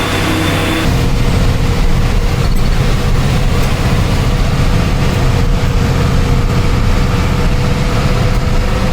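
Truck engine and running gear driving a rough road: a deep, steady low rumble with road noise and faint knocks. About a second in, the smooth engine hum turns into a louder, rougher rumble.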